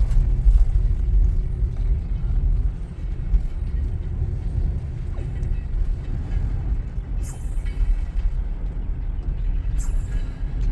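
Steady low rumble of a passing train, with two brief high hissing sounds about seven and ten seconds in.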